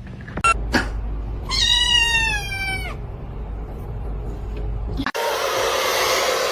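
A cat meowing once, one long drawn-out call that falls slightly in pitch, after two short clicks. Near the end the sound changes abruptly to a steady hiss.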